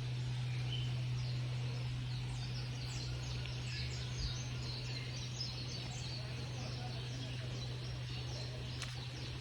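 Small birds chirping in many quick, high notes, thickest in the middle of the stretch, over a steady low hum.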